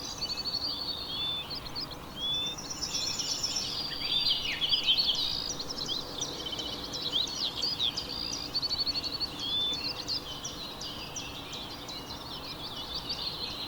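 A chorus of many small songbirds chirping and trilling at once, with overlapping short calls and quick rattling trills. It is busiest about four to five seconds in.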